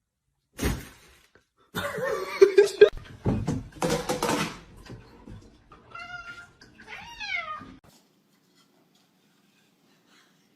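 A cat meowing twice, about six and seven seconds in; the second meow falls in pitch. Louder, rougher cries or voices come before it, in the first half.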